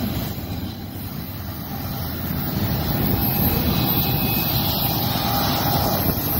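Freight cars of a passing train rolling by close at hand: a steady rumble of steel wheels on the rails.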